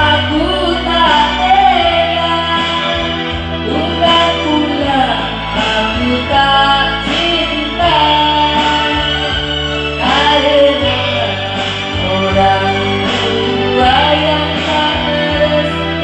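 A song with a singing voice over guitar and bass accompaniment, with a steady beat.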